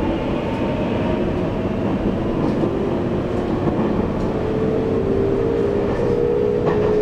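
Taiwan Railways EMU800 electric multiple unit running, heard from inside the carriage: a steady rumble of wheels on track, with a motor whine that rises slowly in pitch from about four seconds in as the train gathers speed.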